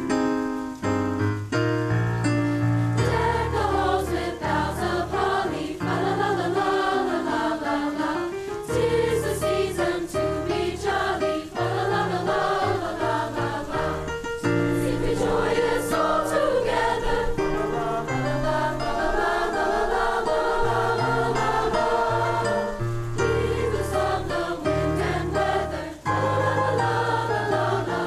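Student choir singing with instrumental accompaniment, low bass notes held under the voices.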